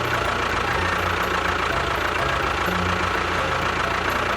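A mini DIY toy construction machine running steadily: an engine-like low pulsing drone with a thin steady whine above it.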